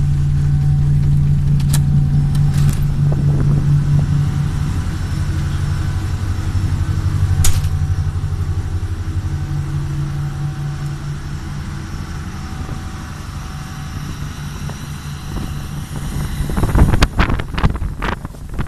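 Steady low drone of a Voskhod hydrofoil's diesel engine under way, slowly growing fainter, with a couple of sharp clicks. Near the end, wind gusts buffet the microphone.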